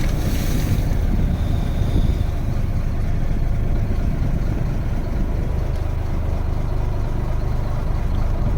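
A wooden fishing boat's engine running steadily under way, a continuous low drone, with a short hiss of wind on the microphone in the first second.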